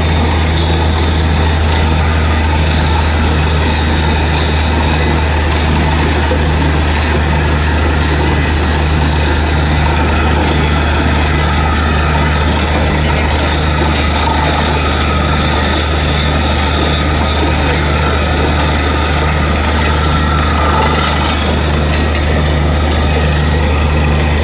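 Borewell drilling rig running steadily under load: a heavy engine-driven drone with a regular low pulse about one and a half times a second.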